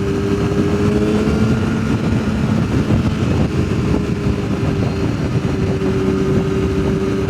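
Sportbike engine running at a steady cruise, its pitch holding nearly level, under a dense rush of wind noise.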